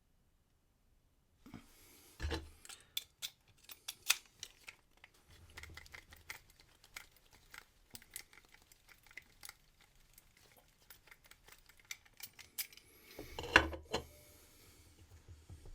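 Small metallic clicks and scrapes from handling a brass key and tools while impressioning a key for a wafer cam lock, with a heavier knock about two seconds in and another near the end.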